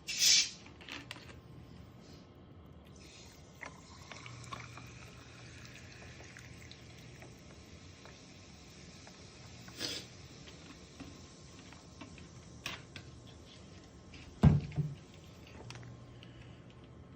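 Small wood fire crackling, with a steady hiss and a few sharp pops, the loudest about fourteen seconds in.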